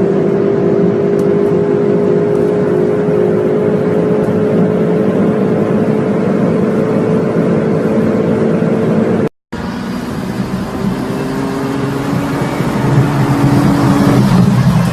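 Supercar engine running at a steady note for about nine seconds. After a brief cut, another car's engine revs up, rising in pitch near the end.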